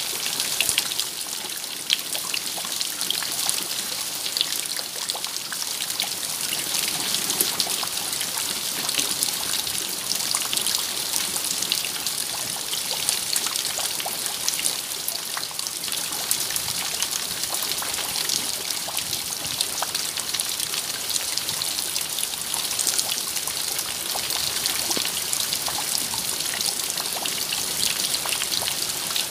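Steady rain falling, a dense patter of drops with a trickle of running water.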